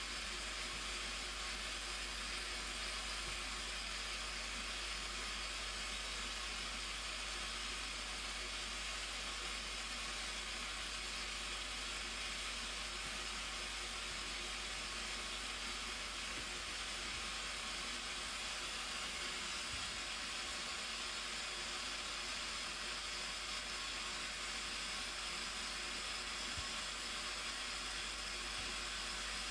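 Steady roar of the Blue Nile Falls: a dense, even rush of falling water that does not change.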